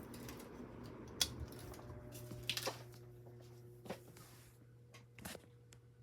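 Aloha Breeze 42-inch ceiling fan's motor humming steadily as it is switched to run in reverse. Four sharp clicks or knocks come about a second and a half apart.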